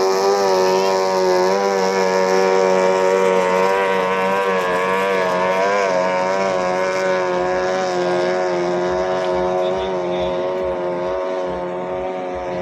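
Racing boat's 18 hp outboard motor running at high revs, a high, steady engine whine whose pitch wavers slightly, easing off a little near the end.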